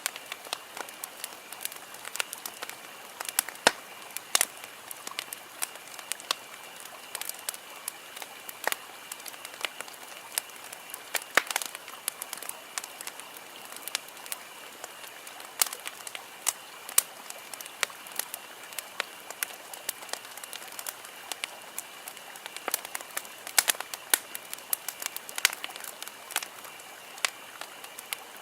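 Wood campfire crackling, with frequent irregular sharp pops and snaps over a soft steady hiss, and a faint steady high-pitched tone underneath.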